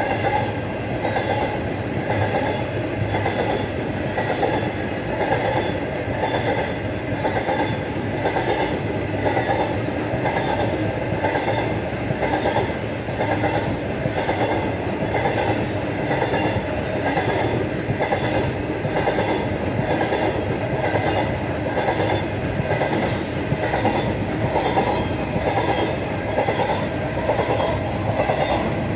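A train running steadily on the rails, with a regular clickety-clack of wheels passing over rail joints.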